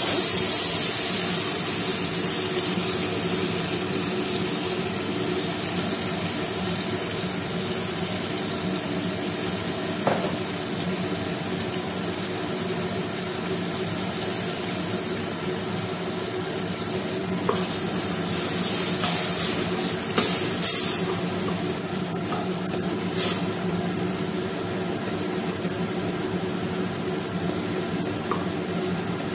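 Ground mint, ginger, garlic and green chilli paste sizzling in hot oil in an open pressure cooker. The sizzle is loudest as the paste goes in at the start, then settles to a steady frying sound. A wooden spatula scrapes and stirs against the pot a few times, mostly past the middle.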